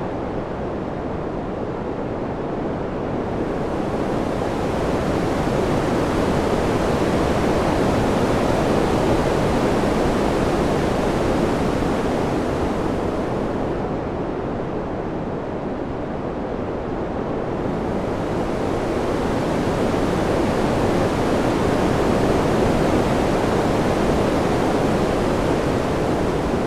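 Wind ambience: a steady rushing noise with no gusts or clicks that slowly swells and eases twice. The hiss thins near the start and again about halfway through.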